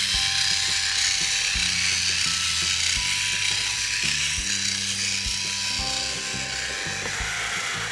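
Background music with a stepping bass line, over the steady high whir of a small motorized toy Thomas the Tank Engine running along its track.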